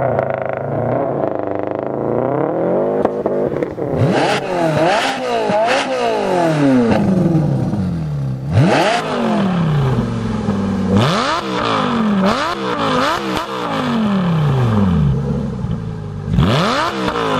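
2008 Lexus IS F's V8 through a custom 3-inch cat-back exhaust with an Injen intake, revved again and again. Each rev climbs sharply and then falls away more slowly, in clusters of quick blips with short pauses between.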